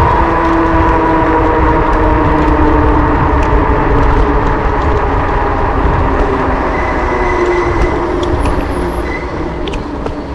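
Steady low rumble of riding noise on a bike-mounted action camera, with a steady mechanical hum running under it; it eases slightly over the last few seconds.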